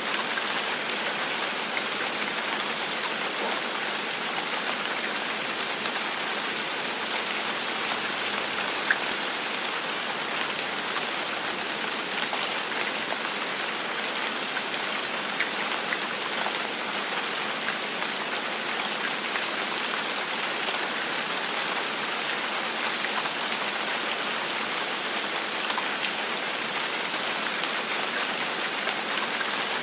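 Steady gentle rain falling, a constant hiss with scattered individual drop ticks.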